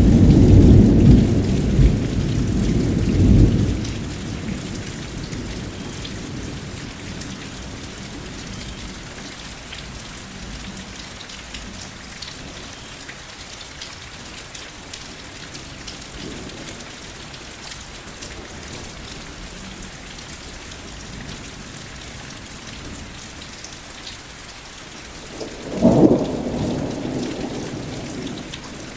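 Steady rain falling, with rolling thunder: a loud low rumble in the first few seconds and another sharper clap of thunder near the end that rumbles away.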